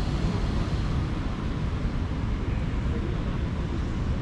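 Steady urban street ambience: a continuous low rumble of traffic under an even hiss, with no single event standing out.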